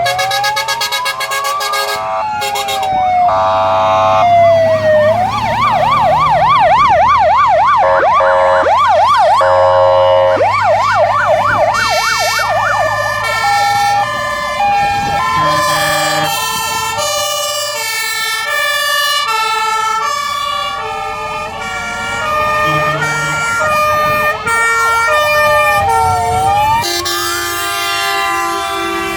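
Fire engine sirens from several trucks passing in a column, overlapping one another. Slow rising-and-falling wails mix with a fast yelp, then alternating two-tone high-low notes take over about halfway through. Truck engines rumble low beneath them.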